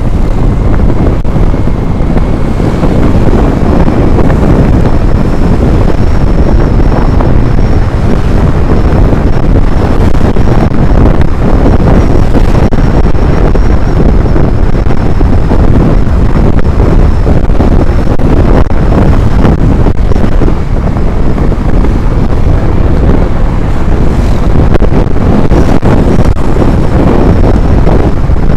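Loud, steady wind buffeting the microphone while travelling, a deep rumbling roar with a faint high whine running through it for much of the time.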